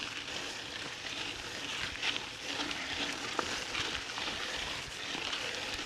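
Mountain bike riding over a sandy dirt trail: steady crackling hiss of the tyres on loose sand, with a few faint ticks from the bike.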